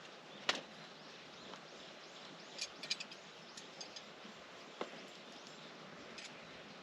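Quiet outdoor ambience with faint bird chirps and a few sharp clicks or taps, the loudest about half a second in, a quick cluster near the middle and another near the end.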